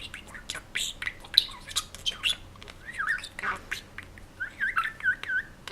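Budgerigar chattering: a quick run of short chirps, clicks and scratchy squawks, then a string of small looping whistled notes near the end.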